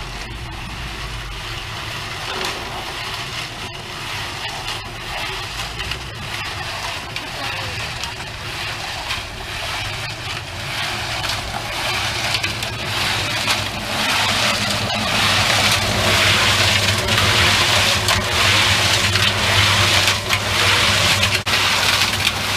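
A motor running steadily with a coarse, gritty churning noise, which grows louder over the second half.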